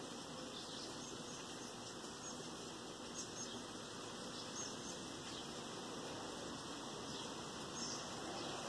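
Steady rain falling as an even hiss, with scattered faint high chirps or ticks; no thunder.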